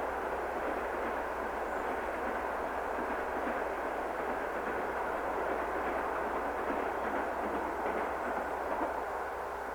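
Passenger train running past on the track: a steady noise of coach wheels on the rails, with no horn or distinct wheel clicks.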